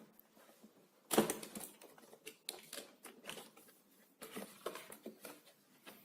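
Cardboard box and packaging being opened and handled by hand: irregular scrapes, taps and rustles, the loudest about a second in.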